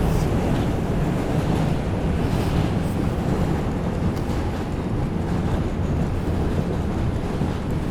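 Steady rumble and rail noise inside an R142 subway car running between stations.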